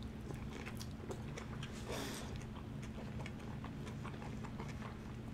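Close-miked chewing of a mouthful of food: a run of soft, wet mouth clicks and smacks, with a brief breathy hiss about two seconds in, over a faint low steady hum.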